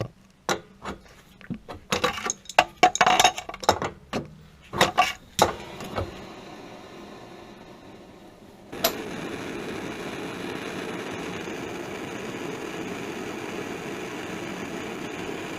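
Metal tools clinking and knocking against copper pipe fittings. Then a handheld gas torch hisses as its valve is opened, lights with a click about nine seconds in, and burns with a steady rush, ready to sweat a soldered copper joint loose.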